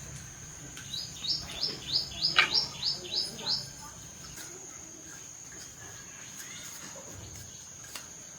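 A bird singing a quick run of about ten short, high, downward-sliding notes, roughly four a second, lasting two to three seconds. A faint, steady high-pitched whine runs underneath.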